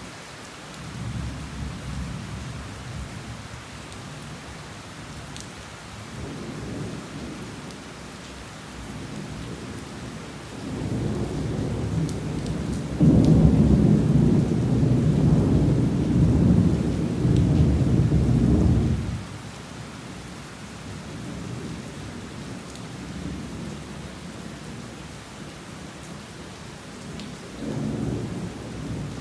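Heavy rain falling steadily while thunder rolls overhead. Low rumbles come and go, and a long, loud roll builds about ten seconds in and lasts about eight seconds before dying away fairly suddenly. A shorter rumble comes near the end.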